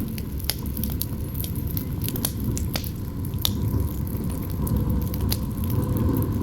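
Campfire burning, with irregular sharp crackles and pops over a steady low rumble of wind.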